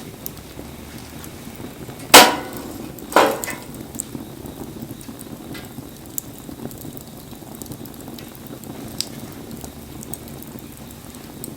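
Wood bonfire crackling in the rain, with small sharp pops throughout. Two loud sharp knocks about a second apart come a couple of seconds in, the first the louder.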